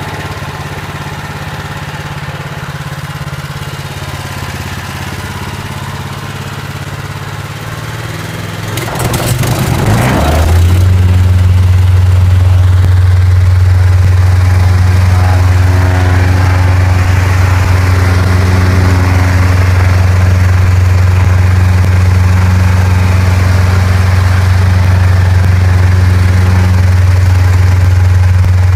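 Gasoline-engine plate compactor idling, then throttled up about nine seconds in. After that it runs loud and steady at working speed with a deep hum.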